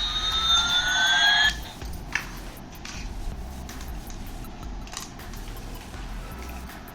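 Toy's electronic sound effect of gliding tones, one rising and one falling, cutting off suddenly about a second and a half in. A few faint clicks from handling the toy follow.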